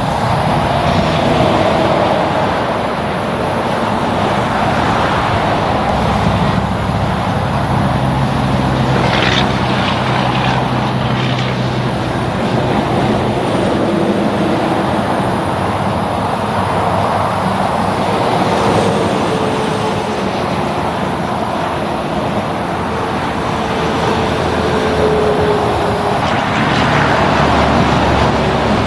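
Road traffic: engines and tyre noise from passing vehicles, swelling and fading as each one goes by, with a low steady hum partway through.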